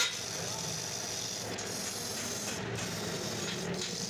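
Steady scraping of metal being worked by hand on a motorcycle clutch housing, with one sharp knock right at the start.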